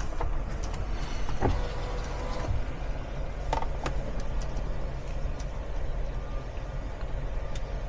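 Semi truck's diesel engine idling with a steady low rumble, with a few faint clicks over it.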